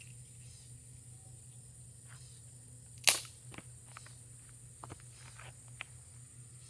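One sharp crack about three seconds in, followed by a few lighter clicks, over a steady high-pitched hiss and a low hum.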